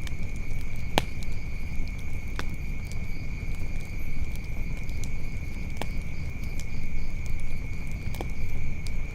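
Wood fire burning with a low steady rumble and a few sharp crackling pops, four of them standing out. A steady high-pitched insect drone, like crickets, runs under it.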